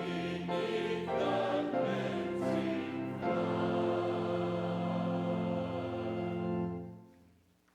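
Choir singing a hymn with accompaniment, on long held chords; the final chord dies away about seven seconds in.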